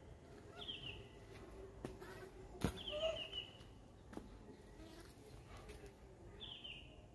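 A small bird singing a short, quickly falling trill three times, a few seconds apart, faint over outdoor background noise. A single sharp tap sounds about two and a half seconds in.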